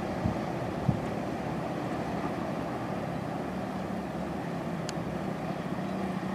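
Train running steadily across a bridge: a continuous rumble with a steady low hum, and a couple of short knocks in the first second.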